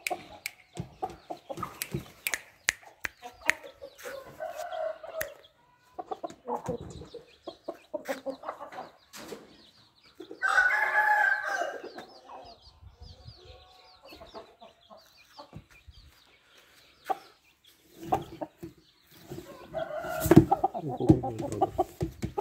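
Aseel chickens clucking, with a rooster crowing once about halfway through; sharp clicks and knocks throughout.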